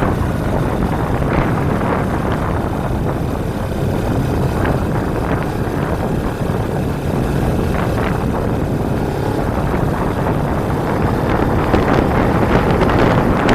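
Motorcycle riding sound from a Kawasaki Ninja 250: steady wind rushing over the microphone mixed with the parallel-twin engine running at speed.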